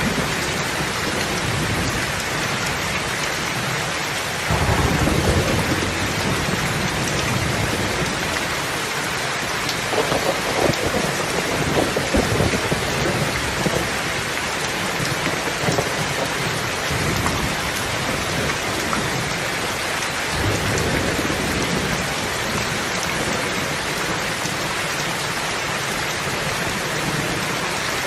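Steady heavy rain falling, with rolls of thunder: a sudden low rumble about four seconds in, a longer rolling stretch around ten to thirteen seconds, and another rumble near twenty seconds.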